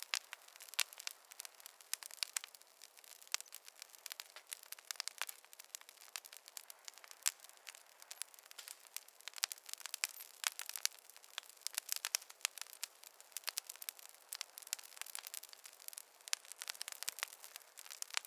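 Campfire burning, the wood crackling and popping in dense, irregular snaps.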